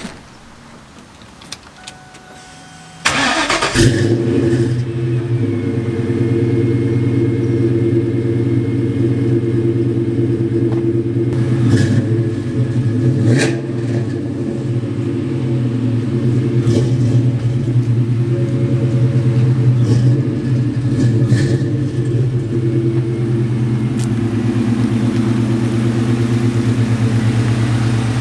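2002 Ford Mustang GT's 4.6-litre V8 starting about three seconds in, then idling steadily. It breathes through long-tube headers, an uncatted X-pipe and Flowmaster Thunderback mufflers.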